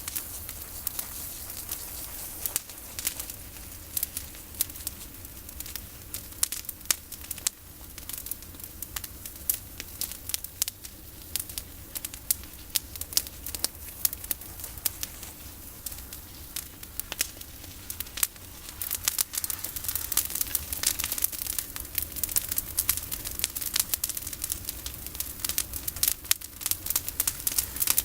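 Bonfire of pruned olive branches burning, with a dense, irregular run of sharp crackles and pops over a steady hiss, busiest about two thirds of the way through.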